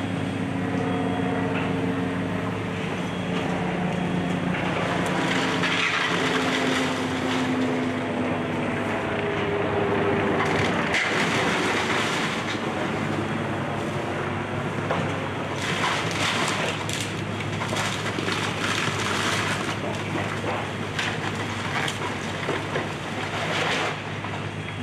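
Excavator engine running under load while the wooden structure of a house is crushed and splintered, with repeated cracking and crunching that grows denser in the second half.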